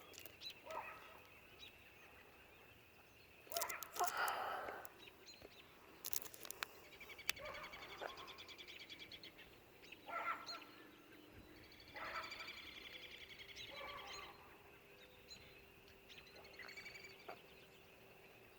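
Birds calling outdoors: several separate calls, the loudest about four seconds in and again around ten seconds. A few sharp clicks are also heard.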